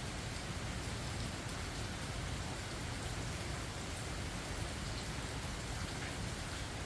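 Steady rain falling, with a constant hiss and a low rumble underneath, and scattered individual drops ticking.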